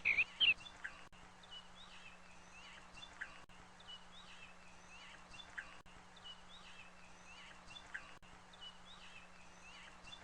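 Small birds chirping: a burst of loud chirps right at the start, then fainter chirps recurring, over a low steady hum.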